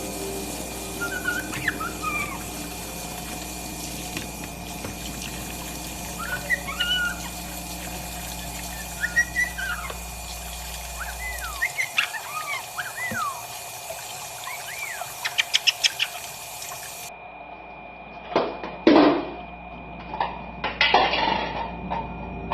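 A pet bird whistling and chirping short calls that rise and fall in pitch, with a quick run of sharp clicks about two-thirds in. Near the end come a few louder, harsher noisy bursts.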